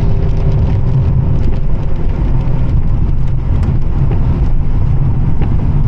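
Pontiac Firebird driving in the rain: a steady low rumble of engine and tyres on the wet road, under an even hiss of rain and spray with a few faint ticks.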